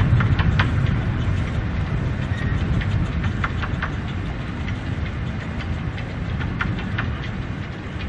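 Miniature steam railway train running by: a low rumble of wheels on the track, with irregular sharp clicks as the wheels cross rail joints. The rumble is loudest at the start and slowly fades as the train moves away.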